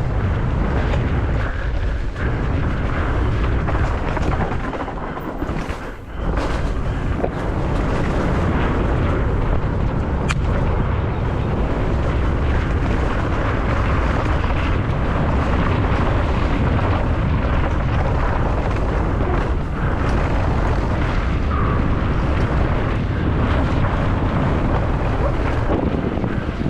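Steady rumbling roar of wind buffeting the microphone and a mountain bike running fast down the course. It eases briefly about five seconds in.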